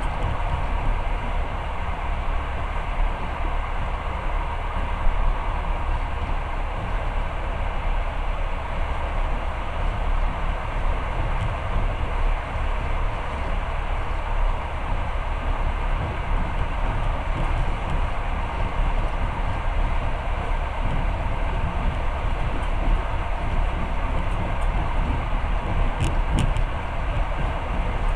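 Long-distance passenger train running along the track, heard from inside the carriage: a steady rumble of wheels on rails with running noise, and a few faint clicks near the end.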